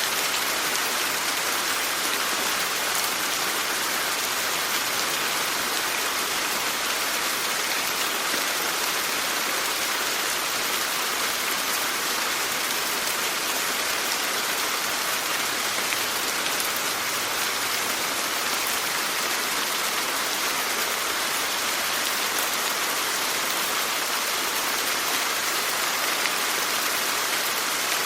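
Steady rainfall, an even hiss of rain on surfaces with no distinct drops or changes.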